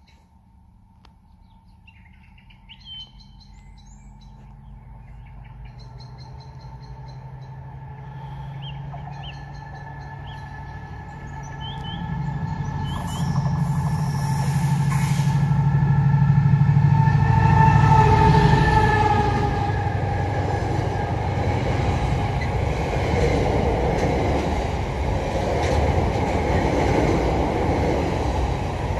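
Freight train approaching and passing close at speed. A locomotive's low drone and a high whine build for about fifteen seconds and are loudest as it passes. Then comes the steady rumble of the wagons going by. Birds chirp before the train grows loud.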